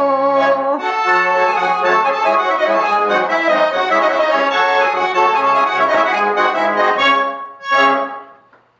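Garmon (Russian button accordion) built by the master Khoroshilov, playing the instrumental close of a song: a lively melody over bass chords, then one short final chord near the end that dies away.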